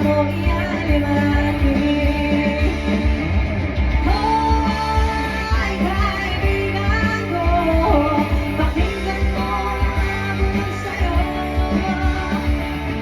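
Live band playing a rock-style song, with a strong steady bass and drum low end under a melody line.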